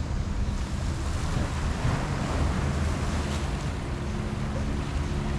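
Wind buffeting the microphone over the steady wash of sea surf, with a faint steady hum underneath.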